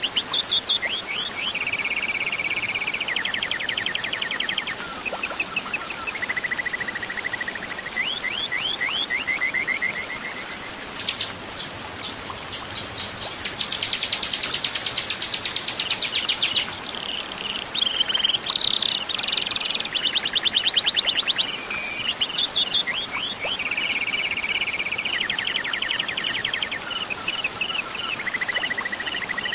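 Small songbird singing a fast, varied song of rapid trills and quick runs of high chirps, the phrases following one another without pause, over a steady background hiss. The same run of phrases comes round again near the end, as in a looped song recording.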